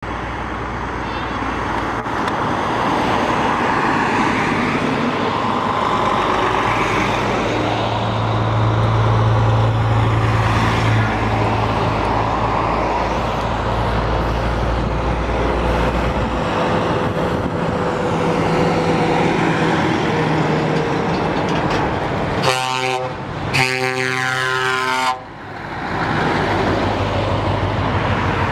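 Heavy trucks' engines running as they drive past. Near the end come two truck horn blasts, the second one longer.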